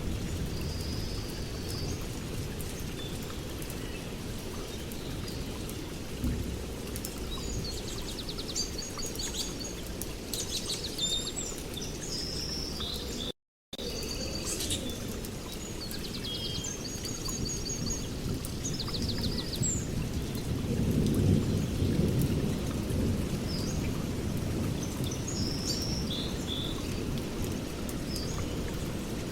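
Steady rain with low rolling thunder that swells about two-thirds of the way through, while birds chirp and trill in short phrases over it. A split-second dropout to silence comes near the middle.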